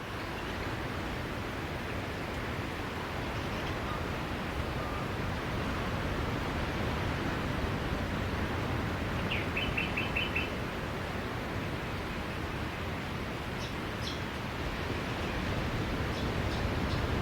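Steady wash of sea waves on a beach, with a quick run of about six bird chirps about nine seconds in.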